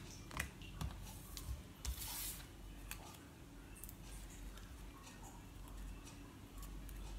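Faint handling of paper craft pieces: scattered small clicks and taps, with a short rustle about two seconds in, as a small paper flower is fitted with a mini foam adhesive pad.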